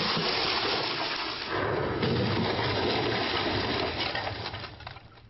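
A loud, sustained rushing and crashing noise from the Smart car's high-speed crash test, dying away over the last second.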